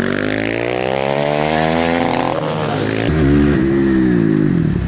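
Supermotard motorcycle engine under way: it revs up steadily for about two seconds and drops off, then about three seconds in a louder, deeper engine note falls in pitch as the bike slows.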